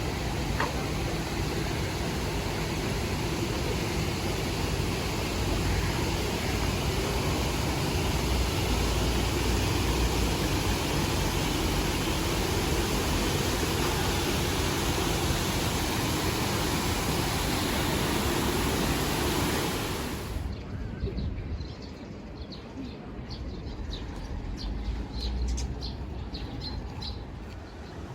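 Water rushing steadily down a restored urban stream, a loud even wash that cuts off suddenly about twenty seconds in. After that, in quieter surroundings, small birds chirp in short high calls.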